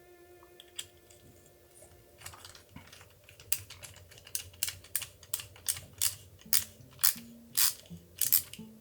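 A run of sharp, evenly spaced clicks, about two to three a second and growing louder, from the small parts of a metal model engine kit being worked by hand, over faint background music.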